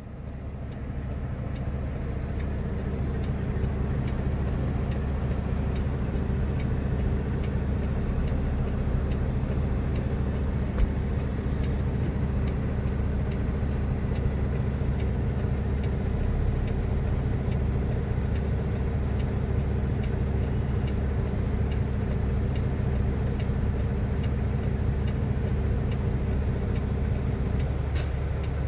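Semi-truck diesel engine idling steadily, a constant low hum.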